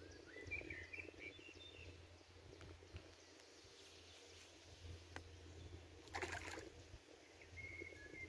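Faint riverside ambience: a songbird sings short warbled phrases near the start and again near the end, over a low steady hum. A brief rush of noise comes about six seconds in.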